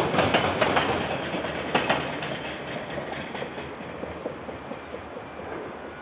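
The last wagons of a container freight train passing, wheels clacking over the rail joints for about the first two seconds, then the rumble fading away as the train leaves.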